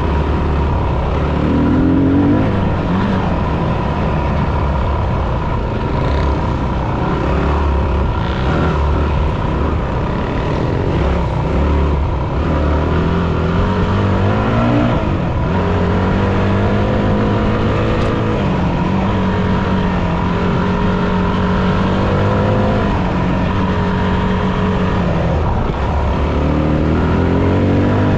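Yamaha WR250F dirt bike's single-cylinder four-stroke engine running under way, its pitch rising and falling again and again as the throttle opens and closes.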